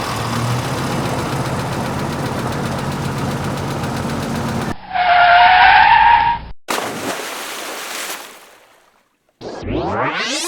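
Vehicle sound effects: a steady engine rumble, then a loud tyre screech of about a second and a half starting about five seconds in. After that comes a fading noise, a brief silence, and a rising synthesized sweep near the end.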